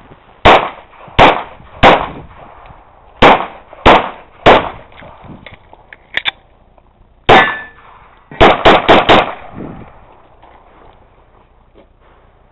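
Handgun shots fired in strings during a timed pistol course of fire: three evenly spaced shots, then three more, a single shot, and a quick burst of four about three-quarters of a second long.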